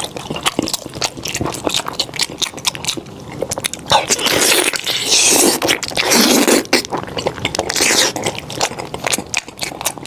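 Eating a goat's head: wet chewing, smacking and sucking of meat from the bone, with many sharp clicks and a longer, louder slurping stretch from about four to seven seconds in.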